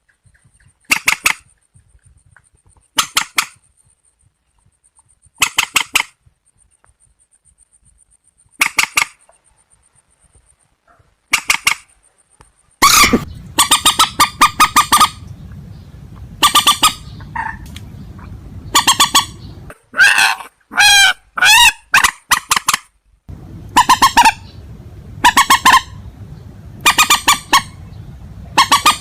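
Repeated harsh, honking calls of swamp rails, the 'trích ré' and waterhen calls used by Vietnamese bird keepers. Each call is a short run of rapid notes; they come every two to three seconds at first, then closer together over a steady low hum from about 13 seconds in.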